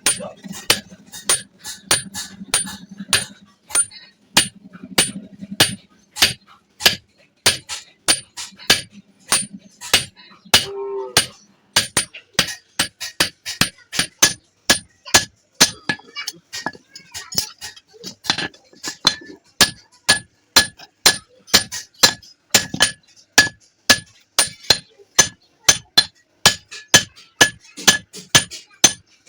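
Hammer beating iron in a steady rhythm, about two to three blows a second, each blow with a short metallic ring.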